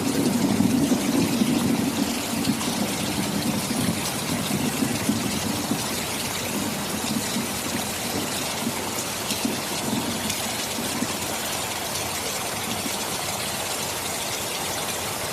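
Heavy rain falling as a dense, steady hiss, with a low rumble underneath that is strongest in the first couple of seconds and comes and goes after that.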